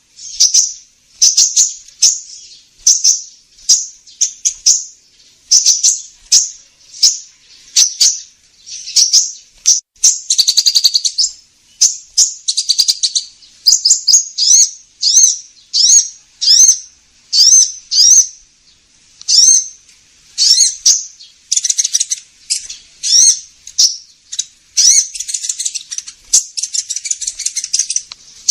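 High-pitched sunbird calls played as a bird-catching lure: a run of short, sharp chirps, several a second, broken by fast trills and buzzy chattering passages.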